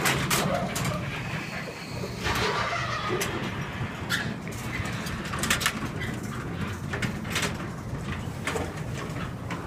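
Craftsman 3/4 horsepower chain-drive garage door opener running as it drives the door, a steady motor hum with scattered clicks and rattles from the chain and door.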